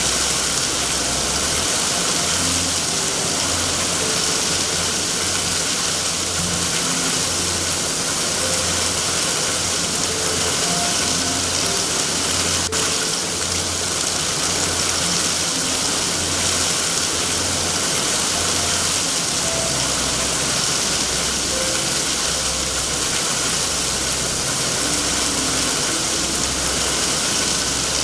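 Steady rain hiss, even throughout, with soft low notes and scattered faint tones underneath.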